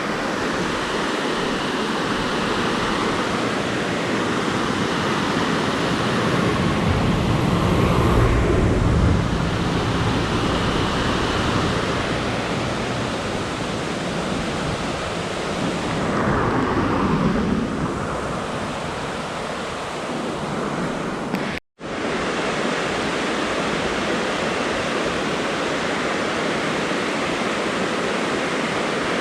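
Roadside waterfall rushing as a steady, dense noise of falling water, swelling slightly a couple of times and cutting out for an instant about two-thirds of the way through.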